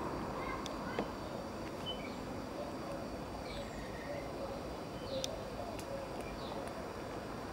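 Outdoor ambience: a steady low rumble and hiss with small birds chirping several times over it, and a couple of faint clicks.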